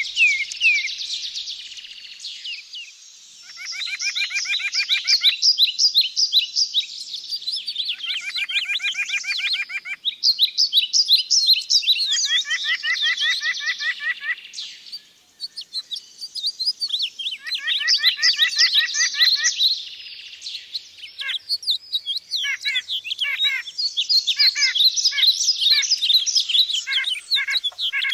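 Several birds singing. One repeats a fast run of rapid, evenly repeated notes lasting about two seconds, roughly every four seconds. A busy chorus of higher chirps and twitters runs alongside.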